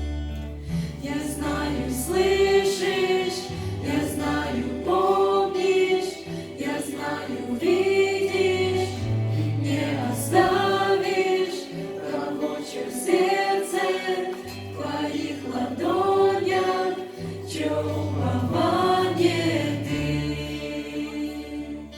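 Choir singing a slow worship song in sung phrases of a few seconds each, over long, low sustained bass notes.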